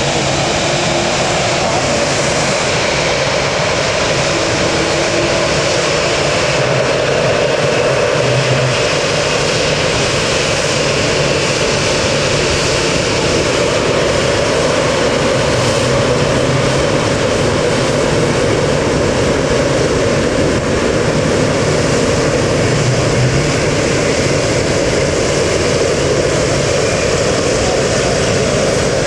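Jet airliner engines running, a loud, steady roar that holds its level throughout.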